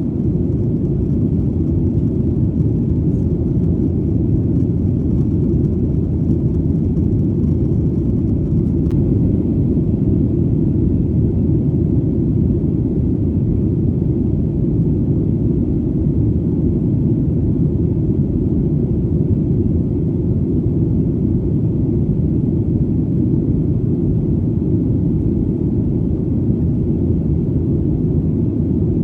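Airplane engine noise heard as a steady, deep rumble that holds even throughout.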